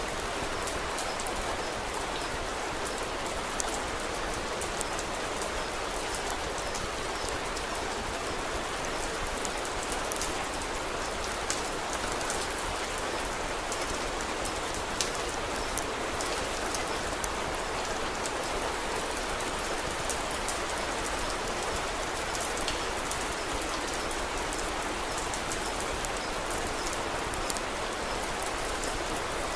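Steady rain falling, with scattered sharp pops, like the crackle of a wood fire in a fireplace, a few of them standing out above the rain.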